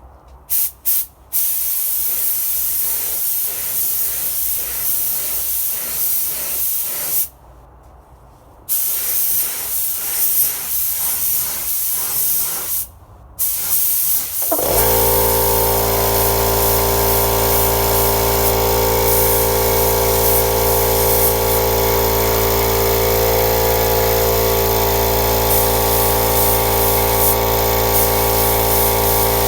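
Air spray gun hissing in bursts, cutting out briefly a few times. About halfway through, a loud steady machine hum with several even tones starts and carries on under the hiss.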